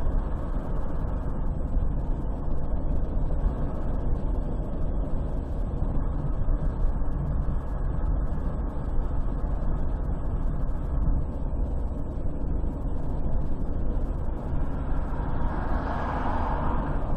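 Steady low rumble of road and engine noise from a car driving at highway speed. Near the end a rushing noise swells up and fades, like another vehicle going past.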